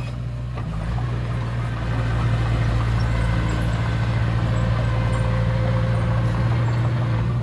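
Heavy diesel earthmoving machinery running steadily, a low, even engine hum that rises slightly about a second in.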